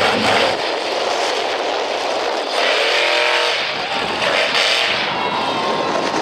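Monster truck engine running loud, revving up in a rising surge about two and a half seconds in.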